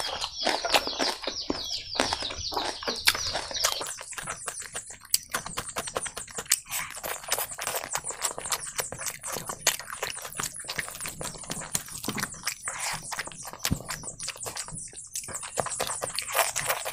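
Close-miked chewing and wet mouth sounds of a man eating spicy pork belly curry and rice: a dense run of crunchy, smacking clicks, sharpest and loudest in the first few seconds.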